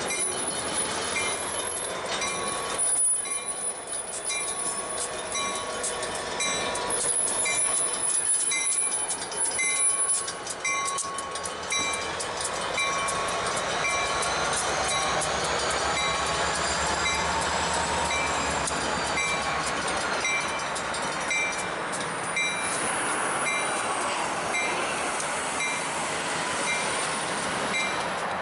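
A slow-moving freight train led by an EMD road-switcher locomotive, its steel wheels squealing on curved track and its low engine rumble rising for a while. Over it, a railroad grade-crossing bell rings steadily at about one strike a second, and a run of rail-joint clicks comes near the start.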